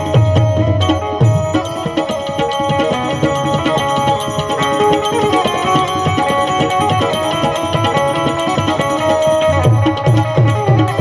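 Instrumental interlude of a Gujarati devotional bhajan: hand drums keep a steady beat under a held, sustained melody line.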